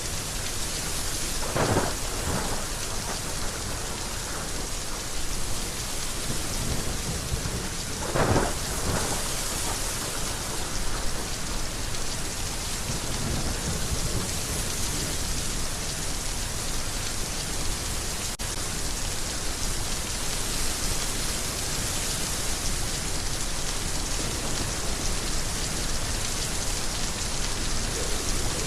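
Heavy rain falling steadily, with two short claps of thunder about two seconds and eight seconds in.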